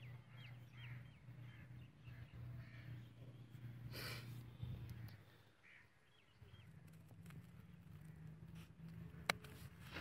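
Faint bird calls over a low steady hum, with a single sharp click near the end.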